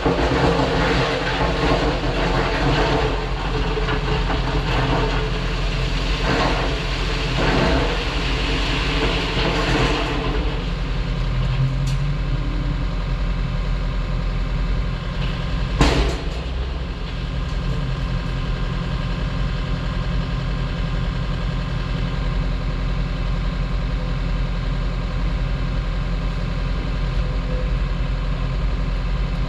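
Diesel engine of heavy construction equipment running, busy and rattly for the first ten seconds, then settling into a steady drone, with one sharp knock about halfway through.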